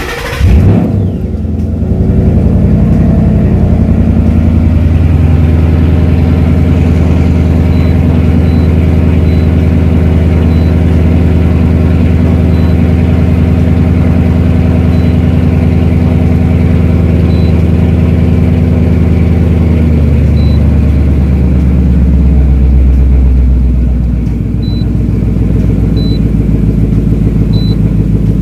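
2012 Mustang GT's 5.0 V8 catching and flaring right at the start, then running steadily at idle; about twenty seconds in the idle note changes and dips slightly, as a cold-start fast idle settles.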